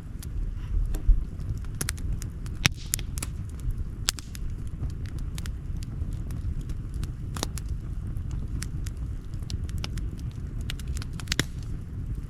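Wood campfire crackling: irregular sharp pops and snaps over a steady low rumble, with a louder pop about a second in.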